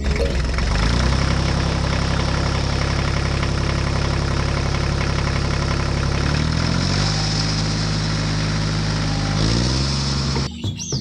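Engine running steadily. It drops to a lower pitch about six and a half seconds in, rises again about three seconds later, and cuts off suddenly near the end.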